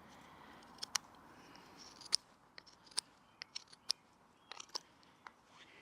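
A Swiss Army knife blade whittling a wooden wedge, shaving off thin curls: a string of short, crisp snicks at irregular intervals.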